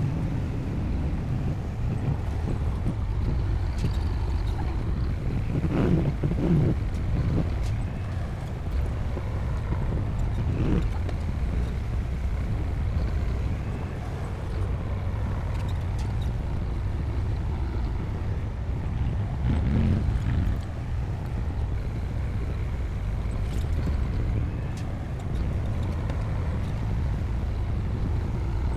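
Bulldozer's diesel engine running steadily with a deep rumble, swelling louder a few times, about six, eleven and twenty seconds in.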